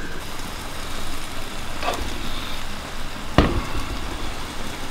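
Cod fillets frying in a pan with soy sauce: a steady sizzle. Two knocks cut through it, a faint one near two seconds in and a louder one about three and a half seconds in.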